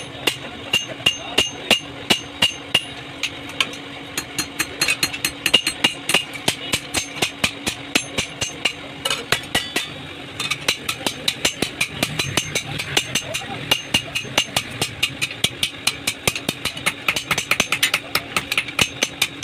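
Hammer blows on sheet metal, several strikes a second with a metallic ring, coming faster in the second half, over a steady low hum.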